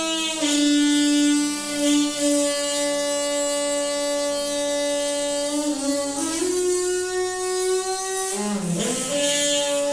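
Noisy water pipe humming with a steady droning tone. The pitch shifts about six seconds in, then dips and slides back up near the end.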